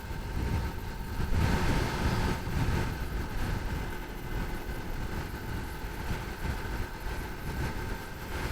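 A 2020 Yamaha R3's parallel-twin engine running steadily at cruising speed, with a rushing, fluctuating wind rumble over it.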